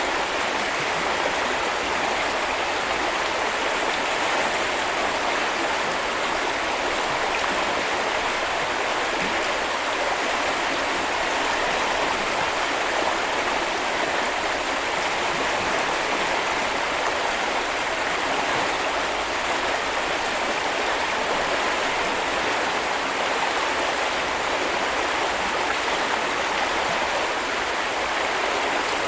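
Small river or brook flowing steadily over stones: an even, unbroken rush of running water.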